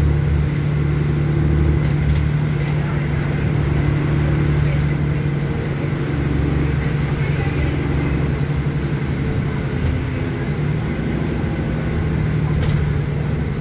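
City bus engine droning steadily, with road noise, heard from on board. A single short click or knock comes near the end.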